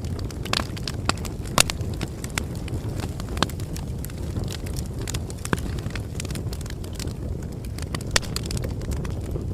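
Bonfire burning: a steady low rumble of flames with sharp pops and crackles of burning wood scattered irregularly through it, the loudest pops about a second and a half in and near the end.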